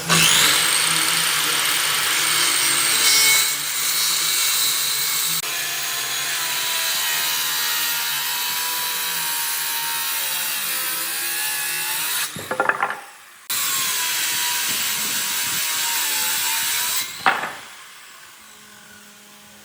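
Electric power tool cutting into wood. Its motor whine climbs as it spins up at the start, and it runs in two long passes with a short break and a few knocks about twelve seconds in. It stops about seventeen seconds in.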